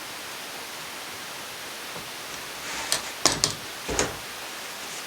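Four or five sharp metal clicks and knocks in quick succession, about three to four seconds in, from tools and engine parts being handled as the piston is taken off a two-stroke engine. A steady hiss lies under them.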